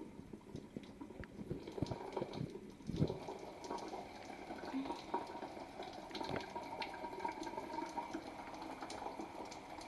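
Shower water spraying and dripping onto a cardboard box fort, a steady patter of many small drops, with a single louder knock about three seconds in.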